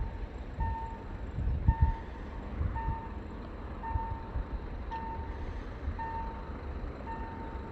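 Railway level-crossing warning signal sounding a short electronic beep about once a second, over a low, gusty rumble.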